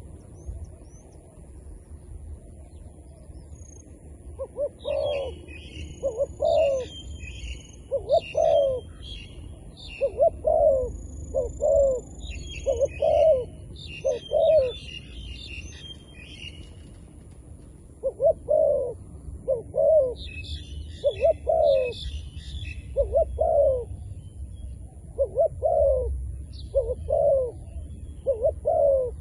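Zebra dove cooing: a long series of short, soft staccato coos about one a second, in two bouts with a brief pause between them. Higher, fainter chirps from another bird come in over the first bout and again near the end.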